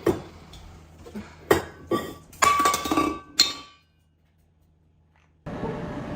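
A string of sharp clinks of hard objects, each ringing briefly, over the first three and a half seconds. Then the sound drops out almost completely, and a steady low background noise starts near the end.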